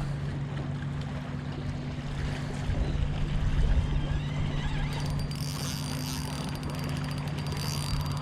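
Steady low hum with wind rumbling on the microphone; about halfway through a spinning fishing reel starts being cranked, a rapid fine clicking.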